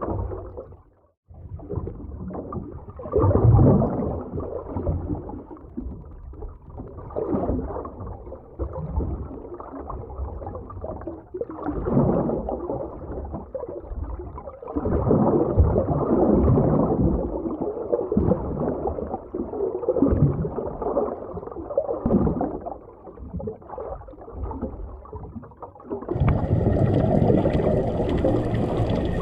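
Underwater ambience: a muffled, rumbling wash of water that swells and fades every few seconds, dropping out briefly about a second in. Near the end it changes to a brighter, fuller hiss of water.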